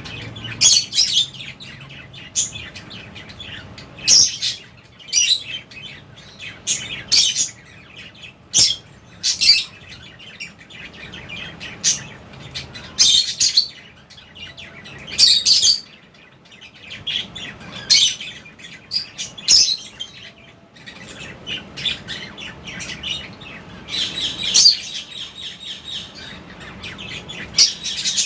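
A flock of lovebirds chirping, with many short, shrill calls coming irregularly, one after another, over a faint steady hum.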